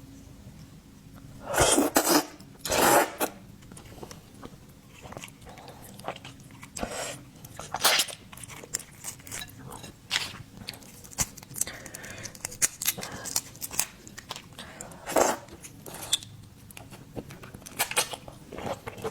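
Close-up eating sounds from a mukbang of prawns and shellfish: irregular chewing and biting with many small wet clicks. The loudest are a few sharp crunches about 2 and 3 seconds in and one near 15 seconds.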